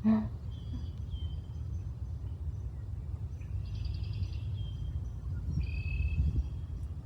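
Songbirds calling and singing in short phrases over a steady low wind rumble on the microphone, with a brief loud knock right at the start.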